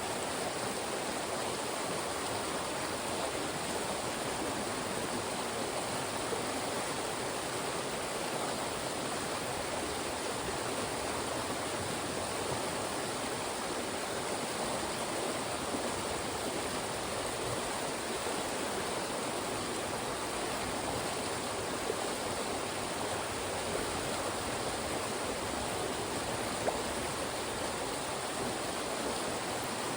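Fast-moving mountain stream rushing steadily over and between rocks.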